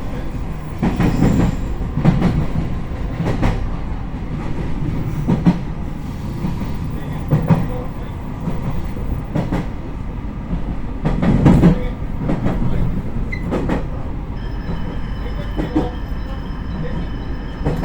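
JR Kyushu 813 series electric train running, a steady low rumble broken by irregular clacks and knocks of wheels over rail joints and points. Steady high-pitched tones set in about three-quarters of the way through.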